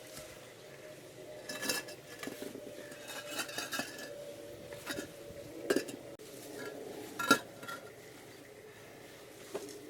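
Concrete blocks being handled and stacked: a series of irregular hard clinks and knocks as block meets block, the loudest strike about seven seconds in.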